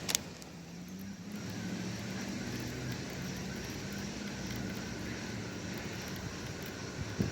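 A sharp click at the start, then a steady engine drone, with a faint click near the end.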